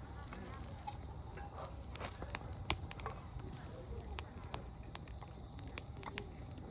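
Wood campfire crackling, with irregular sharp pops from the burning firewood, over a faint, evenly pulsing high chirp of an insect.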